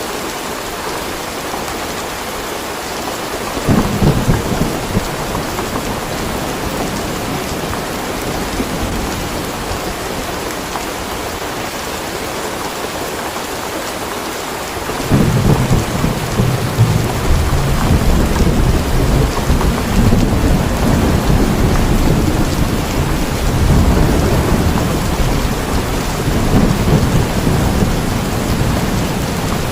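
Steady heavy rain with thunder. A short low burst of thunder comes about four seconds in, and a long, louder rumble of thunder starts about halfway through and carries on to the end.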